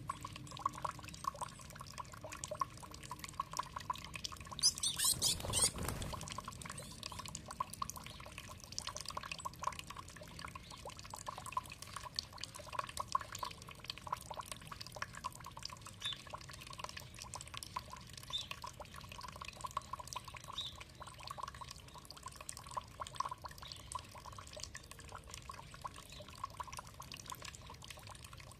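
Water trickling and dripping steadily, with many small splashes and one louder gush about five seconds in.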